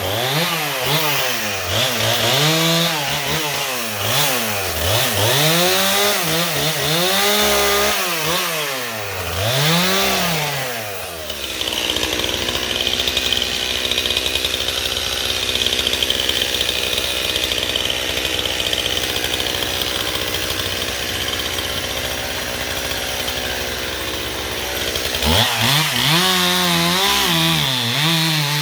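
Two-stroke chainsaw cutting firewood logs. For the first ten seconds or so its pitch rises and falls again and again as the throttle is worked. About halfway through it settles into a steady, noisier run for around fourteen seconds as it bites through a log, then goes back to rising and falling near the end.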